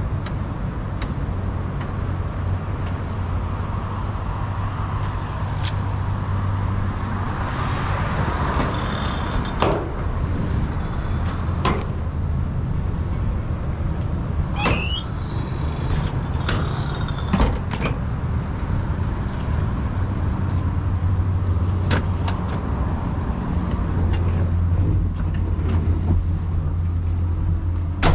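A 1972 Leyland Mini Van's 1.0-litre SU-carburetted four-cylinder engine idling steadily, a low even hum. Several sharp clunks and clicks of the van's doors being opened and shut break in through the middle.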